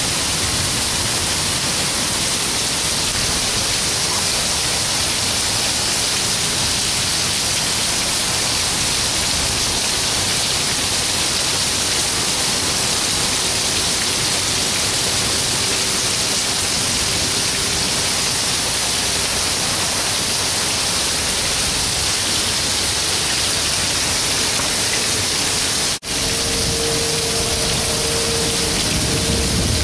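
Heavy thunderstorm rain pouring down, a loud, steady hiss, broken by a brief gap near the end.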